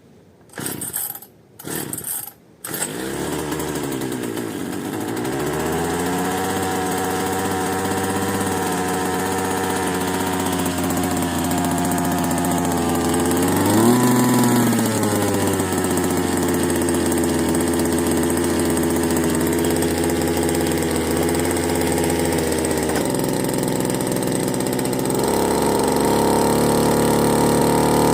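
Bernard Moteurs W14 15 HP engine starting: two short noisy bursts, then it catches about two and a half seconds in and settles into a steady run. Its speed rises briefly about halfway through, and its note changes twice near the end.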